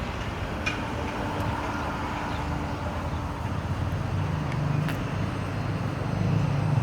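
A vehicle engine running steadily at idle, a low hum that grows a little louder over the last couple of seconds, with a few faint clicks.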